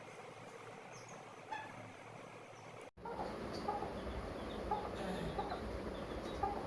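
Chickens clucking, short soft calls scattered over a steady background. About three seconds in the sound cuts out for a moment, then comes back with a louder background and more frequent clucks.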